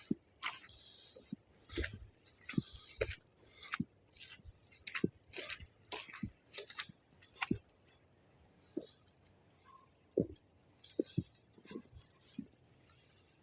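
Footsteps in fresh snow, a step roughly every half second, each a short crackly scrunch; the steps turn fainter and sparser after about eight seconds.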